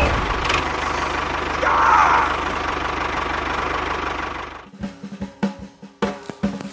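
A small engine running steadily with a fast, even knocking pulse, which cuts off abruptly about four and a half seconds in. Scattered clicks and music follow.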